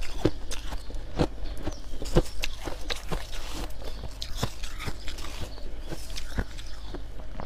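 Close-up chewing of white frost: a run of irregular crisp crunches, several a second, some soft and some hard.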